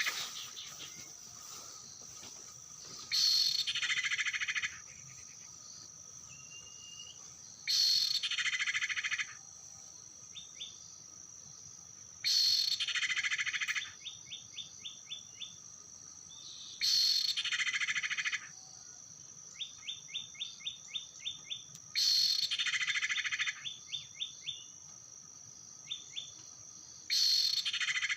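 Bird-lure recording of the cipow (common iora) call: the same phrase, about a second and a half long, repeats six times at very even spacing about every four and a half seconds. A steady high insect drone runs underneath, and quick runs of short high notes fill some of the gaps.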